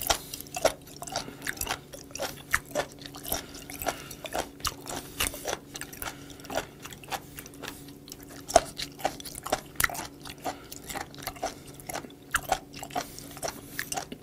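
Close-miked chewing of raw, crunchy seafood: a run of irregular wet crunches and squelches, two or three a second.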